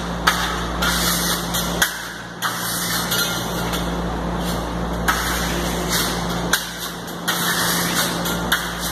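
Steel spatula scraping carnauba wax thinly across a smooth burnt-cement wall finish, in repeated strokes with occasional sharp clicks of the blade, over a steady low hum.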